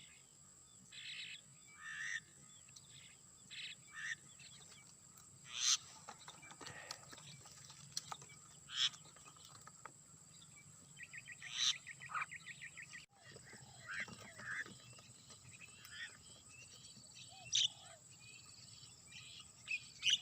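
Birds chirping and calling in short, sharp notes, with a quick rattling series of calls about eleven seconds in, over a steady high-pitched whine.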